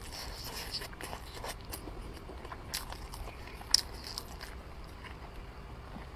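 Close-miked chewing and biting of a braised wrapped pork roll with rice: soft wet mouth sounds and small crackles, with one sharp click a little past halfway.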